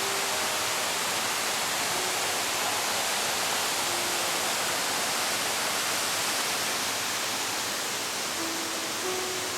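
Steady, unbroken rushing of a waterfall's falling water.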